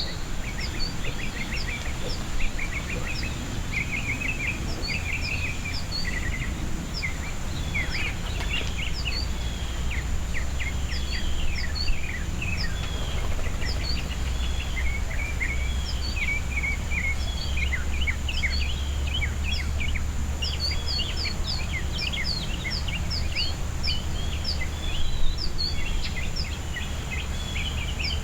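Field recording of small backyard birds: many short, sharp chirps and chip notes from several birds at once, over a steady low rumble of background noise.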